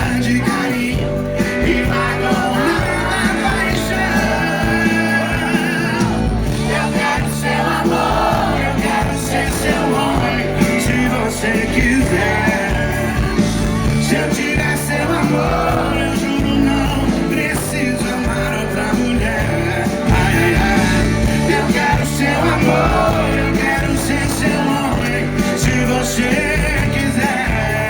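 Live sertanejo band music with sung vocals, played loud and steady over a driving beat.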